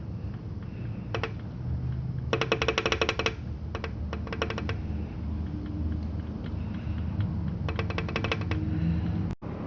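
Two short bursts of rapid clicking, about a dozen clicks a second, each lasting about a second, with a few single clicks between them, over a low steady hum.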